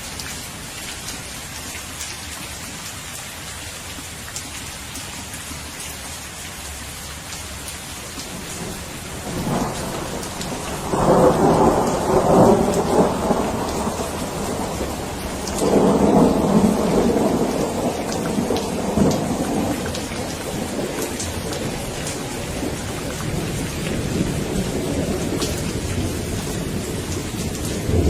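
Steady rain falling, with thunder rumbling in from about nine seconds in: two loud rolling peaks, then a slow fade. Another roll begins near the end.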